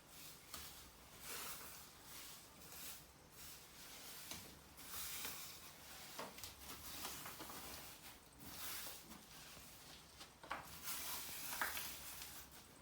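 Faint, irregular scraping and rustling, with a few light clicks, the sharpest near the end.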